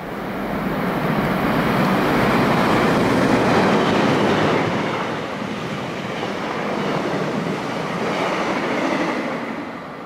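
Passenger train running through the station at speed without stopping: a loud rush of wheel and rail noise that builds over the first two seconds, eases about halfway through, swells again and fades near the end.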